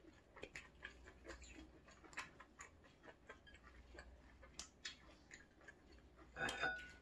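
Close-miked chewing of food, with many small, irregular, clicky mouth sounds. A louder short sound comes about six and a half seconds in.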